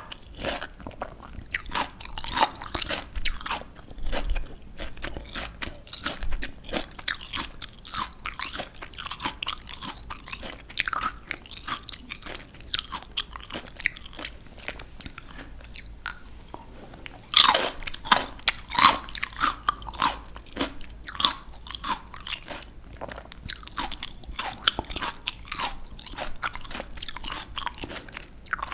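A person biting and chewing crisp raw vegetables: a steady run of crunchy bites and chews, with an especially loud crunchy bite about 17 seconds in.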